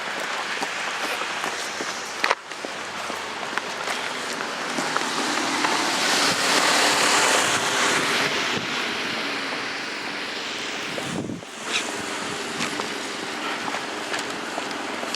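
Snowstorm wind rushing over the microphone, a steady roar that swells to its loudest about six to eight seconds in.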